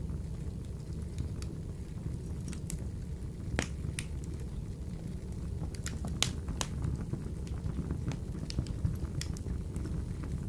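Wood fire burning in a wood-burning stove: a steady low rumble with scattered sharp crackles and pops, the loudest a little past a third of the way in and again just past the middle.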